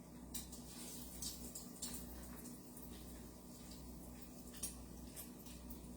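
Faint steady sizzle of chicken pieces frying in hot grease, with a few light clicks scattered through.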